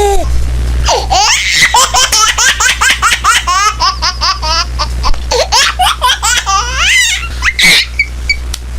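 Laughter sound effect: a long run of rapid, high-pitched laughing, about three to four bursts a second, over a steady low hum.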